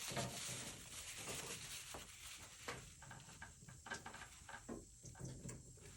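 Faint scrubbing and dabbing on watercolor paper as paint is lifted off with a brush or tissue, steadiest in the first couple of seconds and then broken into short scratchy touches.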